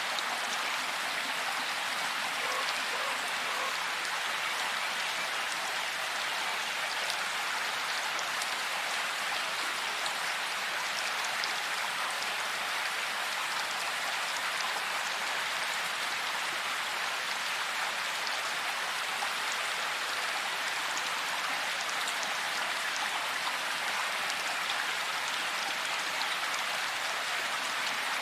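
Heavy rain falling steadily: a dense, even hiss of countless drops with fine patter, unchanging throughout and with no thunder.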